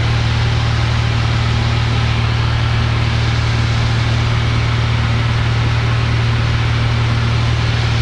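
Cessna 172F's six-cylinder Continental O-300 engine and propeller droning steadily in flight, heard from inside the cockpit, with an even low hum under a wash of air noise.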